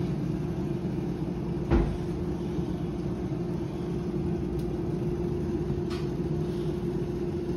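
A steady mechanical hum with one steady tone, from a motor or fan running, with a single knock about two seconds in.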